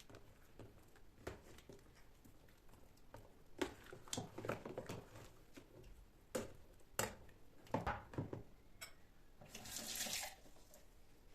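Kitchen sink work: several short knocks and clatters, then water runs from a tap for about a second near the end.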